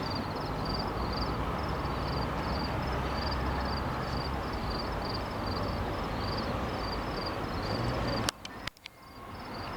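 High, rhythmic chirping, two or three chirps a second, that sounds like crickets in the tracks, over a steady low rumble. A little after eight seconds the rumble drops away suddenly with a couple of sharp clicks, while the chirping carries on.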